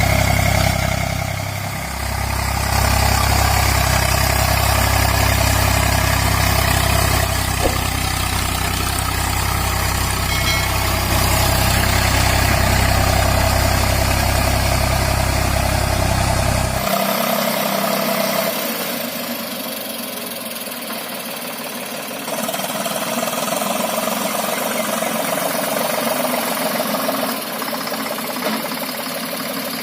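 Eicher 485 tractor's diesel engine running steadily with a deep rumble. About halfway through the deep low end drops away suddenly, leaving a thinner engine sound.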